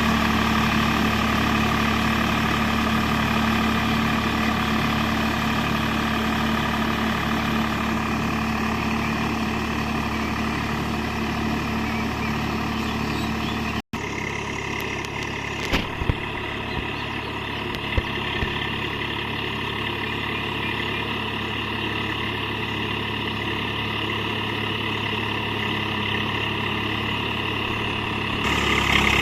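Swaraj 744 FE tractor's three-cylinder diesel engine running steadily. The sound drops out for an instant near the middle, a few sharp clicks follow a couple of seconds later, and the engine gets a little louder near the end.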